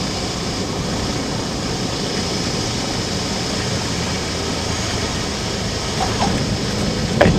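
Cabin noise of a Cessna 172 in flight: its four-cylinder Lycoming engine and propeller running with a steady drone, with no change in power.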